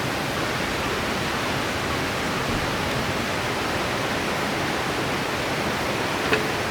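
Mountain river rushing steadily, an even wash of flowing water. A single faint click sounds near the end.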